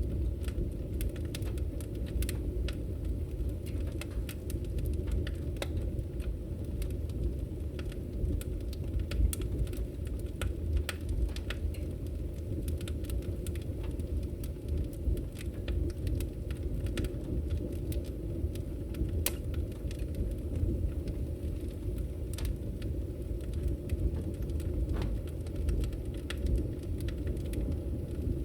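Fire burning in a fireplace: a steady low rumble of flames with irregular sharp crackles and pops.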